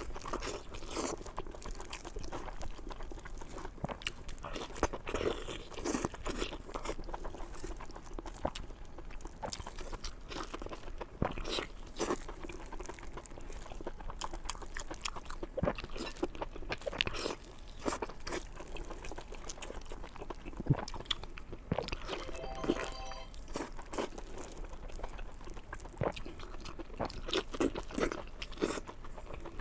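Close-miked biting and chewing of lamb intestine wrapped around lamb meat: repeated crunchy bites and mouth sounds throughout.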